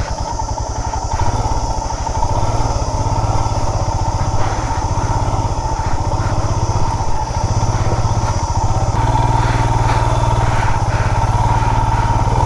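Motorcycle engine running as the bike rides along a rough trail, getting louder over the first two seconds and then holding a steady, even beat.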